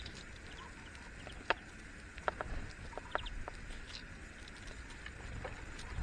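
Great spotted woodpecker at a feeder: a handful of short, sharp ticks, irregularly spaced, over a steady outdoor hiss.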